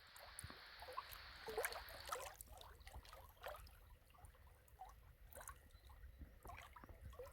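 Faint small trickles and gurgles of water, many short irregular splashy sounds: gentle lapping of water.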